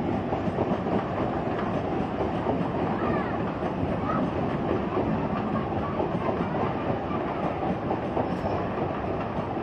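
Eastern Railway suburban EMU local train passing: a steady rumble and clatter of its wheels on the track.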